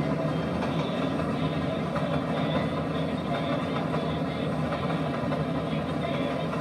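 Passenger train rolling by with a steady low rumble.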